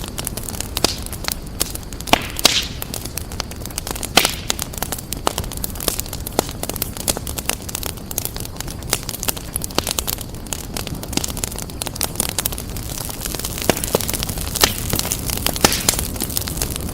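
Wood fire burning in a fireplace, crackling with irregular sharp pops and snaps over a steady low rushing of the flames.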